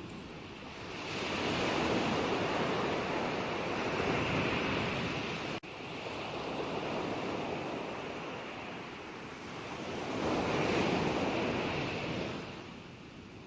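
Ocean waves breaking and washing on a shore in two slow surges, one swelling up about a second in and another peaking near ten and a half seconds, each ebbing away again. There is a momentary dropout in the sound about five and a half seconds in.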